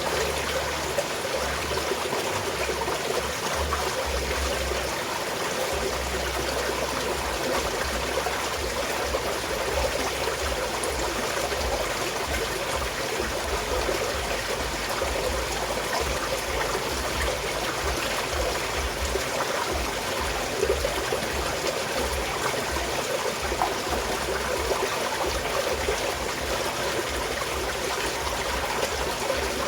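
Small mountain stream flowing and trickling steadily.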